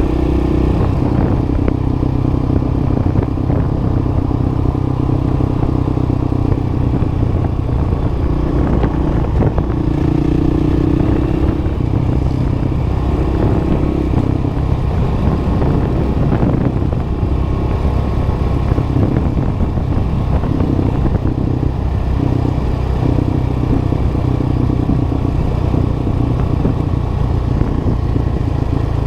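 Dual-sport motorcycle engine running steadily while riding, its note shifting slightly now and then.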